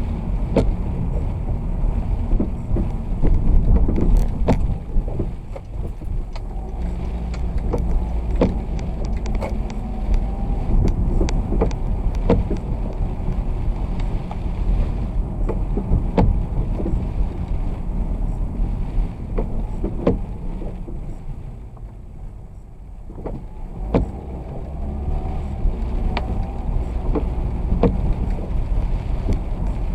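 Vehicle driving in the rain: steady low road rumble and wet tyre noise, with scattered sharp ticks. The noise eases a little over twenty seconds in, then builds again.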